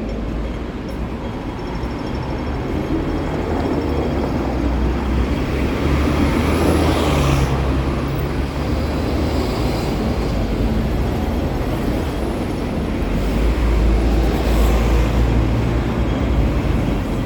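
Street traffic: a steady low rumble of engines and tyres, with vehicles passing close by about six seconds in and again near the end.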